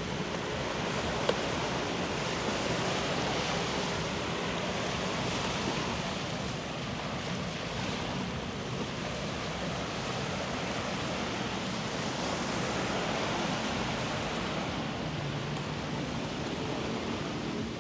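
Steady wash of surf on the beach, with a brief sharp click about a second in.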